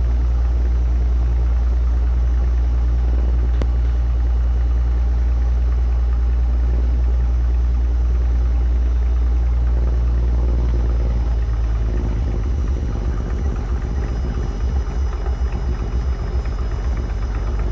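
Stinson light aircraft's piston engine running at taxi power, heard from inside the cabin as a steady low drone. About twelve seconds in, the drone turns uneven and slightly quieter.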